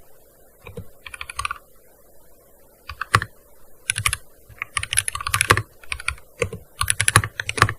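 Typing on a gaming keyboard: irregular bursts of rapid key clicks with short pauses between them, with the longest, densest runs about five seconds in and near the end.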